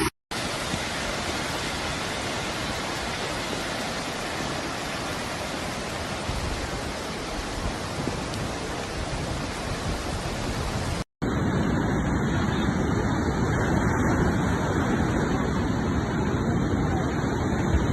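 Steady rushing noise, broken by a hard cut about eleven seconds in. The second part is floodwater rushing down a wadi in flash flood.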